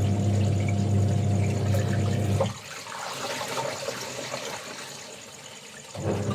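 Washing machine running a wash cycle. Its motor hums steadily, cuts off about two and a half seconds in, leaving water sloshing in the drum, then starts humming again near the end. A faint steady high insect trill runs underneath.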